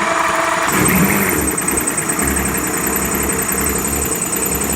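Evinrude 150 hp Ficht two-stroke V6 outboard running just after starting, picking up a little about a second in and then settling to a steady idle. A fast, high-pitched ticking runs along with it from about a second in.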